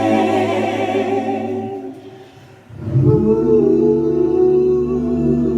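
Vocal group singing a cappella in close harmony: a held chord fades out about two seconds in, then a new chord comes in just before three seconds and is sustained with vibrato.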